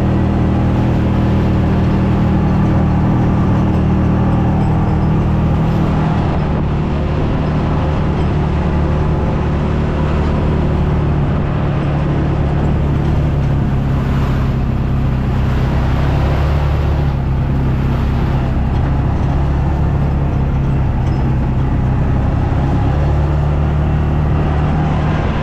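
A vehicle engine running steadily while driving, heard from inside the cab, with a haze of road and tyre noise; the engine note shifts a little a few seconds in and again near the end.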